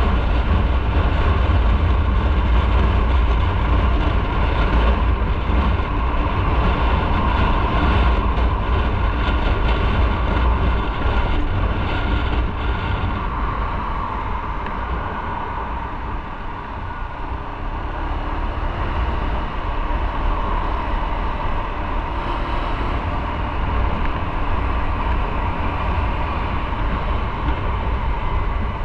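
Motorcycle on the move: wind buffeting the microphone with engine and road noise underneath. It eases off somewhat around the middle, as if slowing, then builds again.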